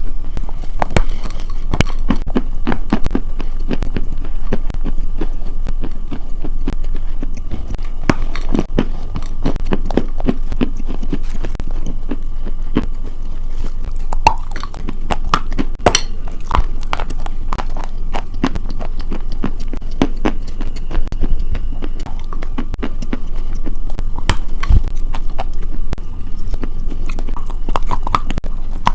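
Close-miked ASMR crunching: a dense, irregular run of crisp crackles and crunches.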